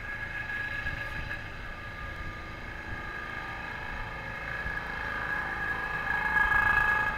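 Amtrak diesel locomotive's K5LA five-chime air horn sounding one steady chord as the train approaches, over a low engine rumble. The horn grows louder toward the end.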